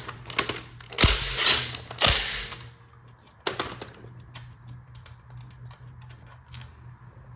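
Ratchet wrench and socket working a spark plug out of the engine: a couple of loud clanks and scrapes of metal tools, then a run of quick, light ratchet clicks.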